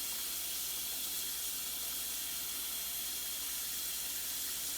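Tap water running into a sink, a steady hiss.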